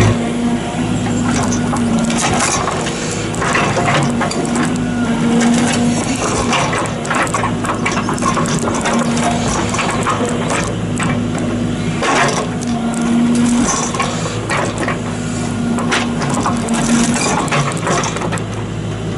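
JCB 85Z-1 8-tonne excavator's diesel engine running steadily under load while its bucket knocks, shakes and cracks at a big fir stump's root to break the soil off it. Irregular knocks and cracks of wood and earth come throughout.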